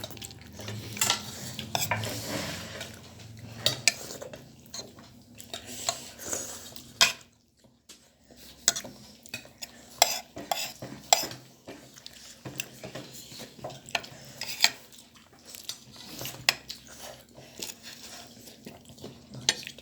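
Spoons and forks clinking and scraping against plates and serving dishes in irregular sharp clicks, with a short pause partway through.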